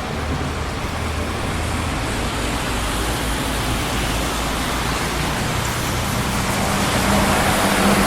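Steady traffic noise of a busy city street: tyre and engine noise from passing cars. Near the end a vehicle's low engine hum comes up and the noise grows louder.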